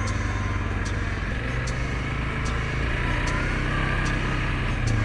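Suzuki KingQuad 750 ATV's single-cylinder engine running steadily under way, its note drifting a little up and down.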